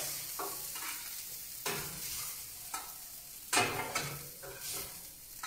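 Food sizzling on a hot, heavy enamelled grill plancha, with metal spatulas scraping across the plate about six times.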